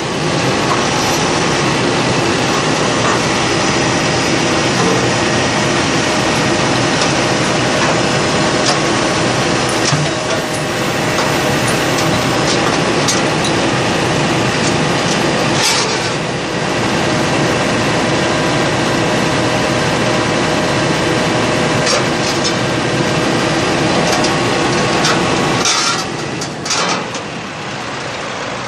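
Heavy diesel truck engine running steadily, with a few sharp metallic clanks and knocks.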